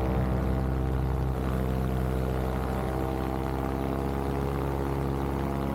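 Vittorazi Moster 185 single-cylinder two-stroke paramotor engine and propeller running at a steady cruise throttle in flight, a constant drone that holds one pitch.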